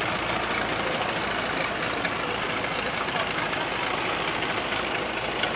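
Engines of First World War replica biplanes and triplanes flying overhead in a mock dogfight, a steady drone with no break.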